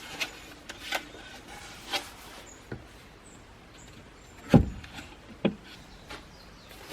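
A series of short knocks and clinks from gear being handled and set down, the loudest a heavy thump about four and a half seconds in, with faint high bird chirps in between.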